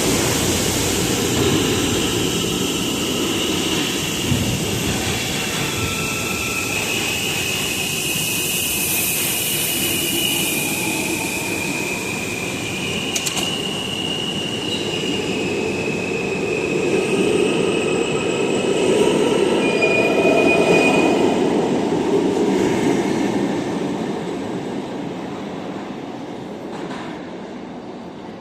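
R160 subway train departing a station: traction motors and wheels running on the rails, with high steady wheel squeals that come and go. It grows louder as the cars pass, loudest about three quarters of the way through, then fades away.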